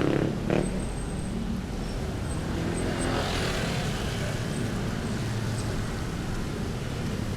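City street traffic: vehicle engines running steadily, with a vehicle passing about three seconds in. A brief, louder sound comes right at the start.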